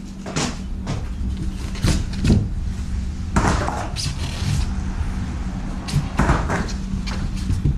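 Cardboard shipping box and packing being handled while unboxing a jointer: several sharp knocks and a few longer rustling, scraping bursts over a steady low hum.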